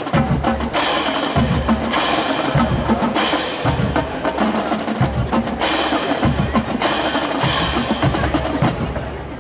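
Marching band percussion section playing, with deep bass drum hits and a series of bright crashes.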